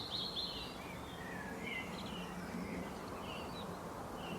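Faint, short bird chirps now and then over a steady outdoor background hiss.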